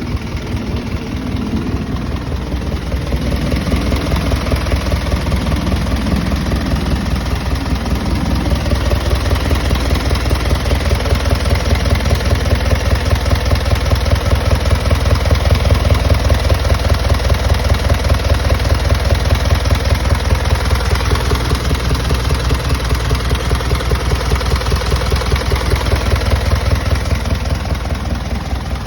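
Hino Dutro truck's S05D diesel engine idling steadily, with a low, even rumble that grows a little louder toward the middle and eases off again near the end.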